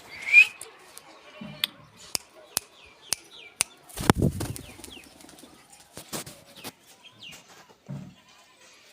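Parrot flapping its wings and calling: one loud short chirp near the start, a series of sharp clicks, a few brief chirps, and a burst of wingbeats about four seconds in.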